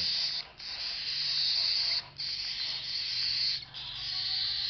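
Cockatiel chicks giving their rasping food-begging calls during syringe feeding, in long runs about a second and a half each, broken by brief pauses.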